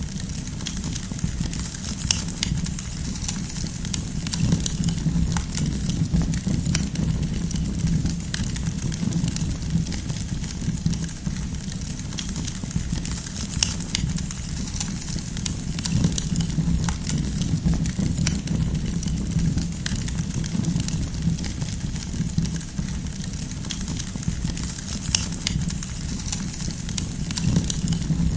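Campfire burning: firewood crackling with scattered sharp pops over a steady low rumble.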